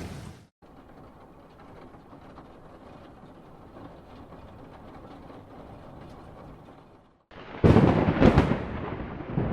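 Thunderstorm: a steady hiss of rain, then about seven and a half seconds in a sudden loud crack of thunder with rumbling over the rain. The sound breaks off abruptly twice, about half a second in and just before the thunder.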